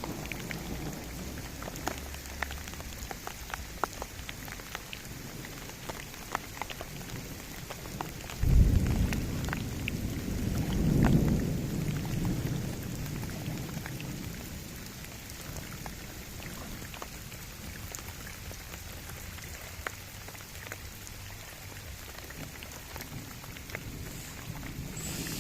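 Steady rain pattering onto a lake's surface, with many small drop splashes. About a third of the way in, a low rumble of thunder starts suddenly, swells for a few seconds, then fades back under the rain.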